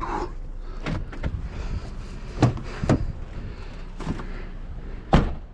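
Five sharp knocks and thumps of found items being handled and loaded into a vehicle, the loudest a bang near the end.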